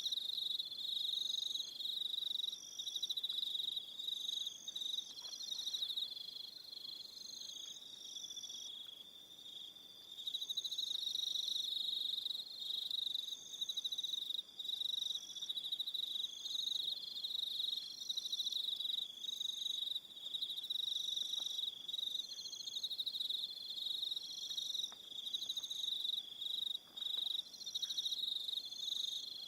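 Evening chorus of crickets: a continuous high, fast-pulsing trill, with shorter repeated calls higher in pitch coming and going every second or so. The chorus thins briefly about nine seconds in.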